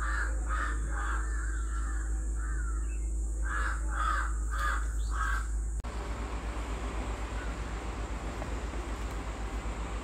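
Bird calls repeated, with a run of about four quick calls around four to five seconds in. After a sudden cut about six seconds in, a steady hiss with a fast, throbbing low hum takes over.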